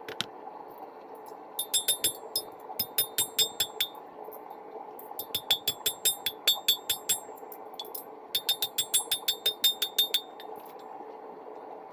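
Hammer striking rebar on a steel anvil: three runs of quick ringing blows, about four a second, while the bent blade is straightened. A steady rush runs underneath.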